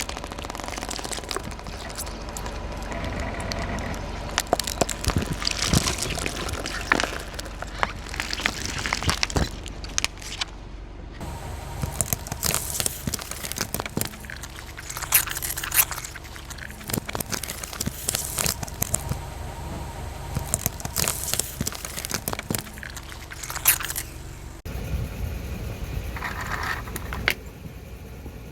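Car tyre rolling over crunchy objects and crushing them: a long run of irregular cracks, crackles and crunches, with a low steady rumble underneath.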